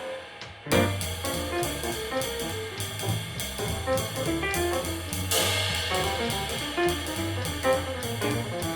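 Handmade 20-inch Chris Kamin ride cymbal (1602 g) playing a steady jazz ride pattern with a drum kit over a jazz backing. The playing comes in after a brief pause less than a second in. Around five seconds in there is a stronger, longer cymbal wash.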